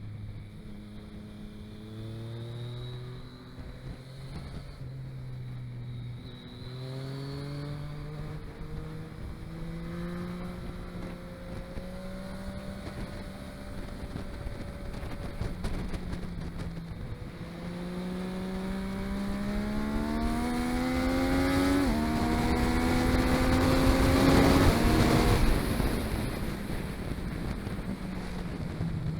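A vehicle's engine under way, pulling up in pitch and dropping back several times as it changes gear. It climbs hardest to its loudest point about 25 seconds in, with rushing noise, then eases off.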